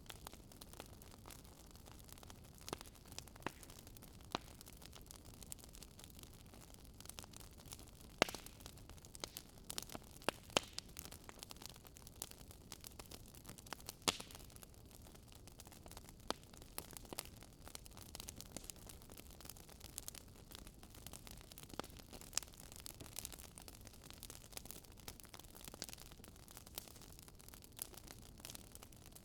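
Fire in a fireplace crackling: irregular sharp pops and snaps over a low steady hiss, with a few louder pops scattered among them.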